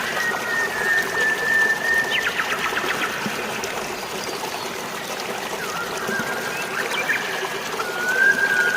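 Steady trickling, splashing water, with birds calling over it: a held whistled note for the first two seconds, a quick run of chirps just after, and more whistled notes near the end.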